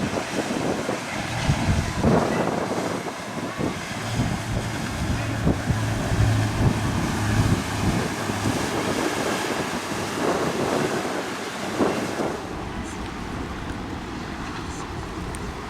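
Strong wind buffeting the microphone over the wash of choppy inlet water, with a low, steady boat-engine hum in the middle seconds. The gusts ease about three quarters of the way through.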